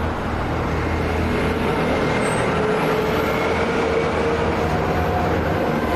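Airbus A400M's four turboprop engines at take-off power as the aircraft climbs away just after lift-off: a loud, steady propeller drone with a hum that shifts slightly in pitch.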